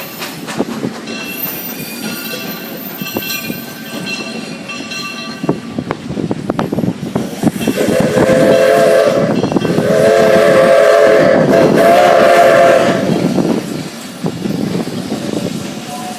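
Steam locomotive running with rattling and clicking on the rails. About halfway through, its whistle blows a chord in two or three long blasts lasting about five seconds in all, the loudest sound here.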